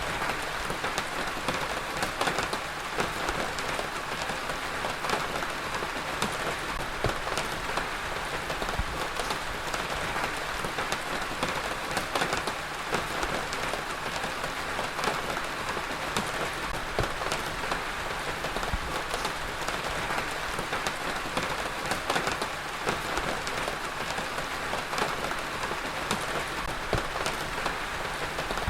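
Heavy rain falling steadily on a surface, a dense even hiss with many individual drops pattering sharply through it.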